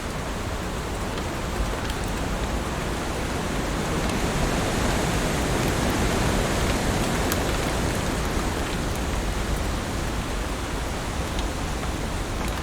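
Heavy rain falling steadily: a dense, even hiss that swells a little in the middle, with a few sharper drop ticks on top.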